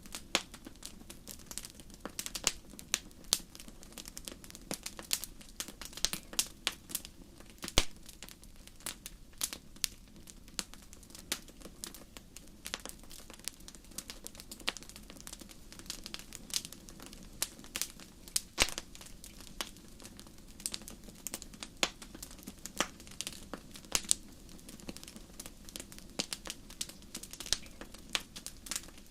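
Campfire crackling: irregular sharp pops and snaps of burning wood, several a second, over a steady low rush of the flames.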